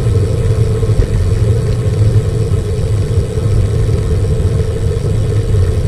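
Wind rushing over the microphone of a moving bicycle, a loud, steady low rumble with road noise underneath.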